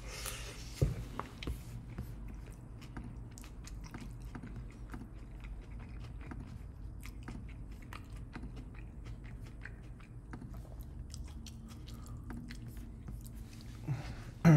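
Close-miked chewing and biting of a mouthful of a steak bowl, with many small wet mouth clicks. There is a sharp knock about a second in, and a louder low thump at the very end.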